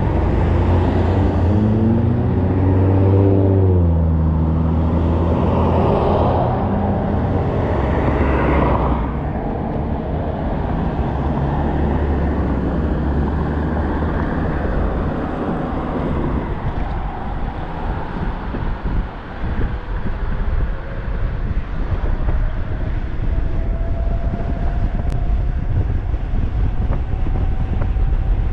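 Wind buffeting the microphone and road noise from an e-bike riding at speed. For the first nine seconds or so a pitched engine-like sound rises and falls over it, and in the second half a faint whine climbs slowly in pitch, like a hub motor speeding up.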